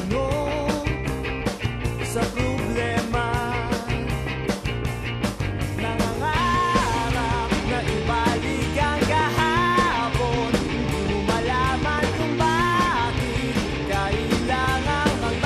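Rock music with a steady drum beat and guitar; a singer comes in about six seconds in.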